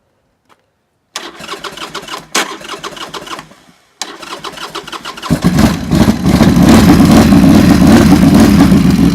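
Buell motorcycle engine being cranked over: two spells of cranking with a short break, then the engine catches about five seconds in and runs loudly.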